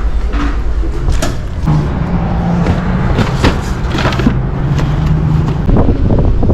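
Wind and road noise while riding an electric motorcycle: a continuous low rumble with scattered knocks, and a steady low hum from about two seconds in until near the end.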